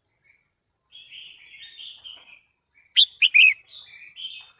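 Female red-whiskered bulbul calling: a run of scratchy chattering notes, then about three seconds in a few loud, sharp whistled notes, followed by more short calls.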